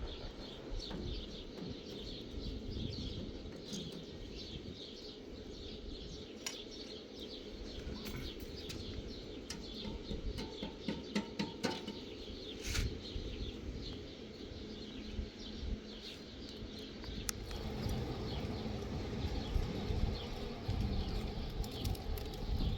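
Small birds chirping over and over, with a few sharp clicks or knocks about eight to thirteen seconds in, and a low rumble growing louder near the end.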